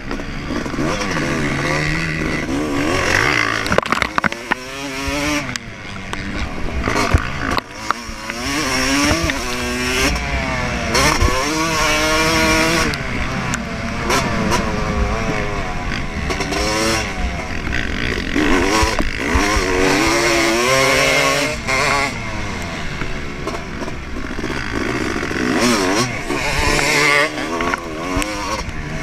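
Yamaha YZ250 two-stroke motocross engine ridden hard, its pitch climbing again and again under full throttle and dropping at each shift or roll-off.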